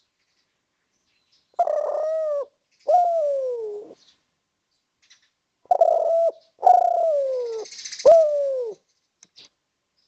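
Spotted dove (derkuku) cooing in two phrases. The first phrase has two coos and the second has three. After the first note of each phrase, the coos slide down in pitch.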